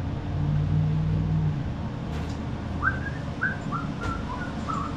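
A person whistling a tune, a run of short separate notes starting a little past halfway, over a low steady hum.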